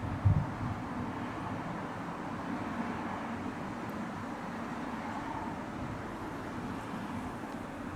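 Steady outdoor background noise with a distant road-traffic hum, and one brief low thump about a third of a second in.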